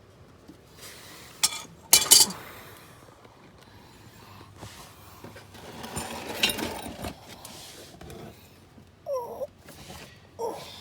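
Sharp metal clinks of tools about two seconds in, then scraping and handling noise while the oil filter is being worked loose, with two short whining squeaks near the end.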